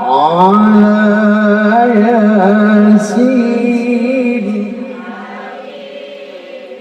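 A man singing a line of sholawat unaccompanied: his voice swoops up at the start into one long, ornamented note with wavering turns, then fades away after about four and a half seconds.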